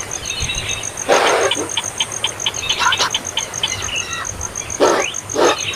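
Baby bird's begging calls: a few short raspy calls and a quick run of short high chirps.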